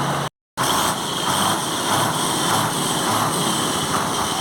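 Ashok Leyland trailer lorry's diesel engine being raced, running loud and rough at raised revs with a faint pulsing beat. The sound cuts out for a moment near the start. The owners complain of heavy black exhaust smoke from this engine.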